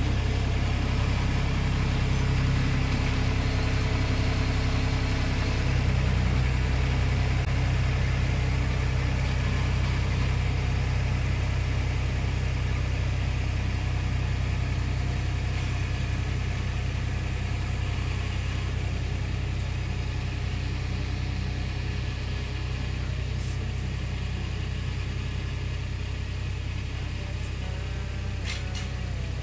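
Small tractor engine running steadily, a low drone that grows slightly quieter toward the end.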